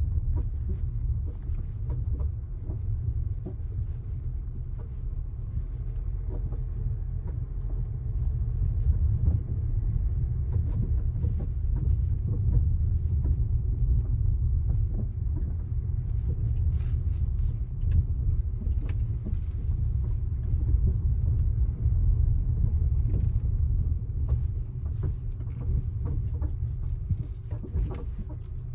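Haval Dargo on the move with a steady low road rumble, over which come many short creaks and squeaks from the body, like an old folding bed, on a car with only about 500 km on it.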